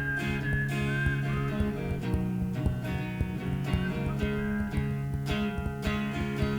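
Music: a strummed acoustic guitar with a whistled melody carried over it.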